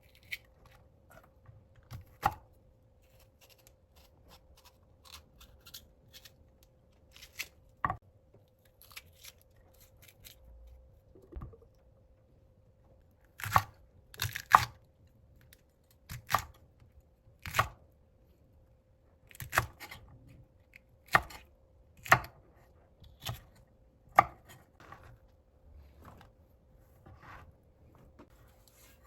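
Kitchen knife cutting food on a cutting board in single, unhurried strokes: a few widely spaced cuts at first, then about one a second from about halfway.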